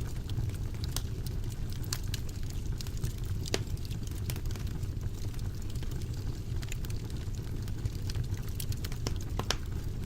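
Wood fire burning in a fireplace: a steady low rumble of flames with frequent irregular crackles and pops from the burning wood.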